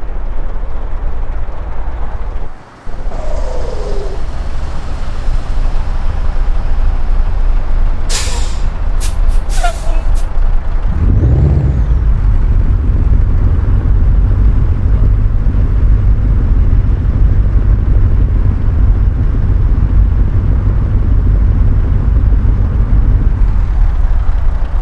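Scania R-series truck's V8 diesel engine running, with a few short air-brake hisses about eight to ten seconds in. Just after, the engine revs up and keeps running louder.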